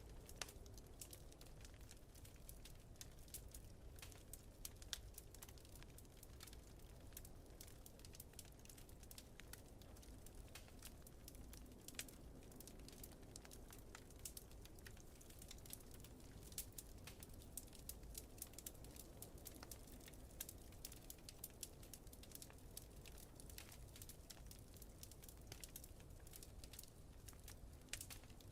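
Fireplace fire crackling softly, with many small irregular pops and snaps over a low steady rumble.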